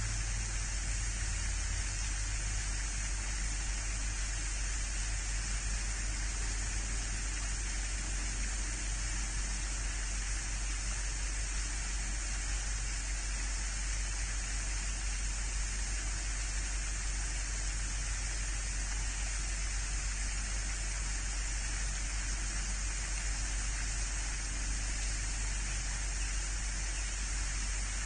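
Steady, unchanging hiss with a low hum underneath, with no distinct events.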